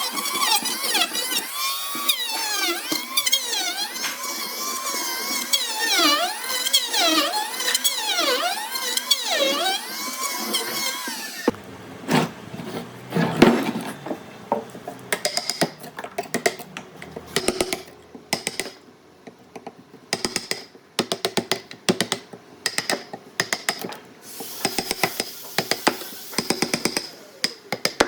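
A warbling tone that swoops up and down in pitch for about the first ten seconds. Then an abrupt change to a run of irregular sharp taps and clicks of workshop tool work on wood.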